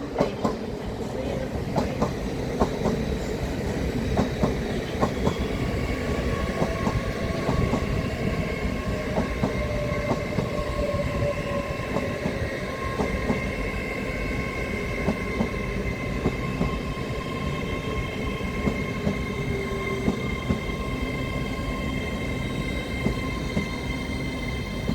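Train rolling slowly along the platform, its wheels clicking over rail joints at an uneven pace over a steady rumble. A steady high squeal sets in about six seconds in.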